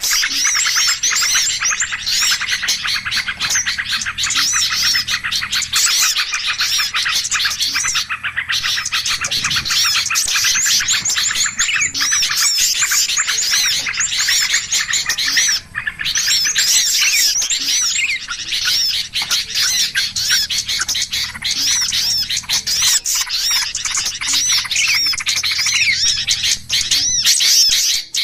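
Many small birds chirping and chattering rapidly together in a dense, unbroken commotion. This is a 'pikat ribut' bird-lure recording, a noisy flock chatter played to draw small birds in. It drops out briefly twice, about a third and about halfway through.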